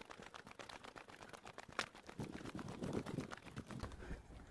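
Faint footsteps while walking, a quick irregular run of small crunches and clicks.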